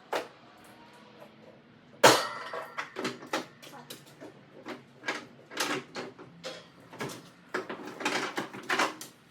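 A sharp bang about two seconds in, followed by a quick, irregular run of knocks and clatters.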